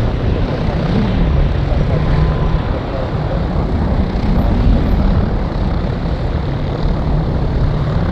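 Cessna Citation Mustang's twin Pratt & Whitney PW615F turbofans running, a loud steady jet noise with a deep rumble.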